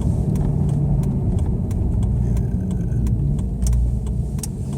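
Chrysler 300C's 5.7-litre Hemi V8 running at low speed, a steady low drone heard from inside the cabin, with faint light clicks now and then.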